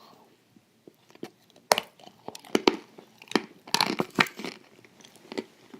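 Crisp waffles with cream being bitten and chewed close to the microphone. After a quiet start, sharp irregular crunches and crackles begin about a second and a half in and go on to the end.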